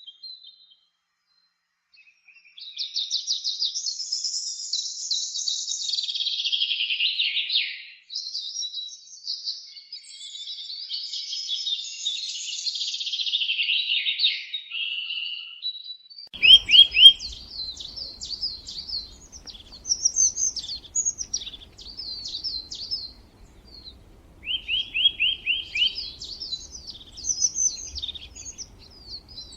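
Songbirds chirping and singing. After a brief pause at the start comes a dense, continuous chatter of high chirps. About halfway through the recording changes to separate song phrases and short fast trills repeated every few seconds, over a faint low background hum.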